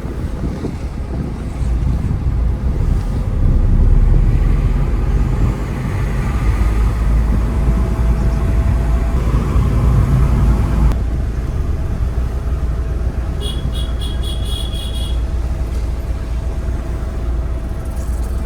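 A car driving along a forest ghat road: steady engine and road rumble with wind buffeting the microphone. A short run of rapid high-pitched chirping pulses cuts in for a second or two past the middle.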